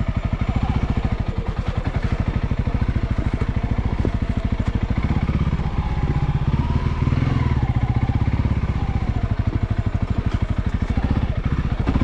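Honda CRF300L's single-cylinder four-stroke engine running at low revs, each firing pulse distinct. The revs rise and fall from about halfway through as the throttle is worked.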